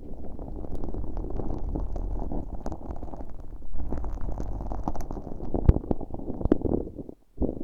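An earpick working sticky, firm slime mixed with fine glitter against a bare ear microphone. It makes a continuous sticky squishing noise full of small clicks, and stops briefly just before the end.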